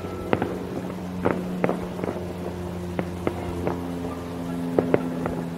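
Aerial fireworks shells bursting in an irregular series of sharp bangs, about a dozen over a few seconds, over a steady low hum.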